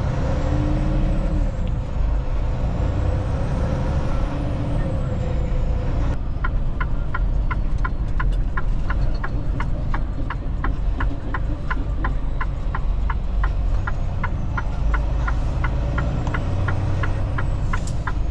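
Semi-truck cab noise while driving: a steady low rumble of engine and road. From about six seconds in, a steady quick ticking joins it, two to three ticks a second.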